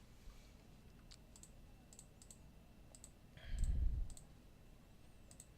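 Computer mouse clicking: light, sharp clicks every half second or so, some in quick pairs. A brief low thud sounds about three and a half seconds in.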